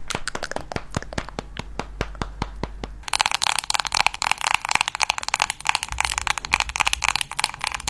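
Close-miked ASMR trigger sounds: a run of separate sharp clicks or taps, then, about three seconds in, a dense fast crackling scratching.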